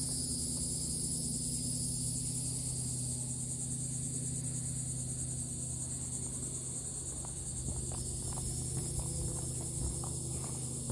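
Steady, high-pitched chorus of insects, with a steady low hum beneath. From about seven seconds in, light footsteps click faintly over it.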